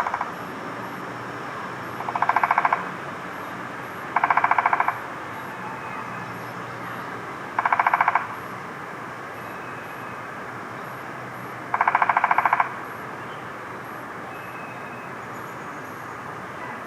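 Downy woodpecker drumming on wood: four short, rapid rolls of strikes, each under a second, spaced a few seconds apart, over a steady background hum.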